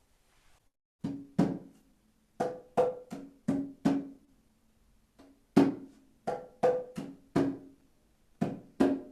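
Hand drum struck in a slow, steady pattern, with short groups of strokes separated by brief pauses. The strokes alternate between a lower and a higher pitched tone, each ringing only briefly.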